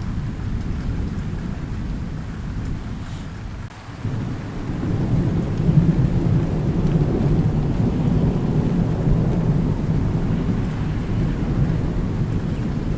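Thunder rumbling low and long over steady rain. One roll fades out a little before a third of the way in, then a new roll swells up and rumbles on for the rest.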